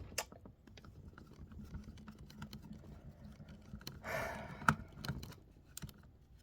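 Faint, scattered small clicks and ticks of a screwdriver turning small Torx screws out of a laptop case, with a short scraping rustle about four seconds in and a sharper click right after it.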